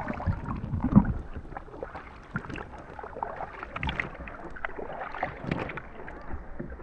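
Water lapping and small irregular splashes around a kayak, with one louder knock about a second in.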